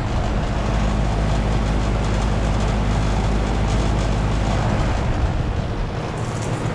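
Trane XR13 central air conditioner's outdoor unit running: a steady low hum from its reciprocating compressor under the even rush of the condenser fan.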